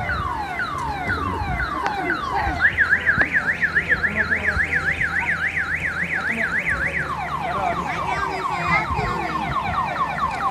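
Electronic car alarm cycling through its tones: repeated falling sweeps about two a second, then a fast up-and-down warble from about two and a half to seven seconds in, then quicker falling chirps near the end.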